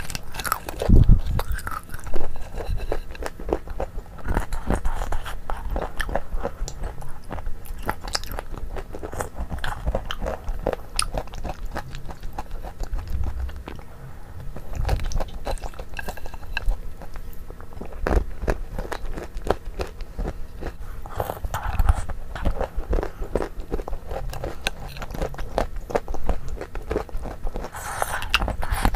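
Close-miked eating sounds: wet chewing and lip smacking on spoonfuls of creamy dessert, with some crunching of the pieces in it. Many small irregular clicks run throughout.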